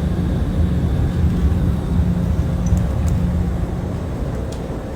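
Steady rumble and airflow hiss of a private jet, heard from inside the cabin.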